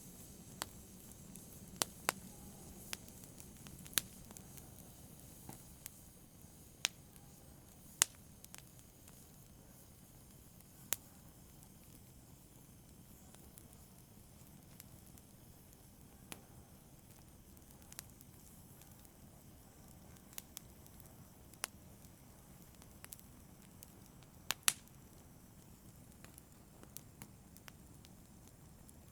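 Fire crackling softly: a faint low rumble with scattered sharp pops at irregular intervals, one every second or two.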